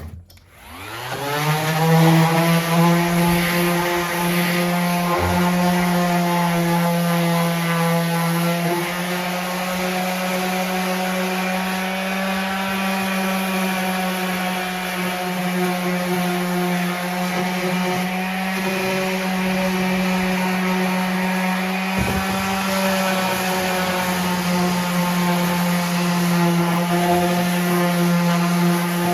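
An electric power-tool motor spins up, its pitch rising quickly within the first second, then runs at a steady pitch with a couple of faint knocks.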